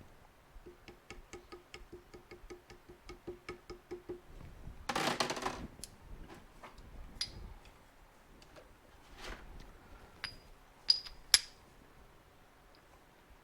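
A seal driver tapped rapidly and lightly with a hammer, about four taps a second for a few seconds, each tap with a short ringing note, seating a new seal in a Suzuki TS250 fork leg. A brief scraping rustle follows, then a few sharp metallic clinks.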